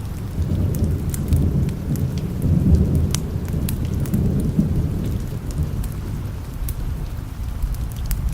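Low rolling thunder under steady rain, swelling about three seconds in and easing off later. Scattered sharp ticks sound over the rumble.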